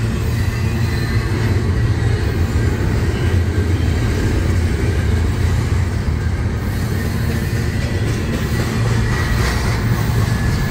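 Double-stack intermodal freight train rolling past, its well cars' steel wheels making a steady rumble on the rails.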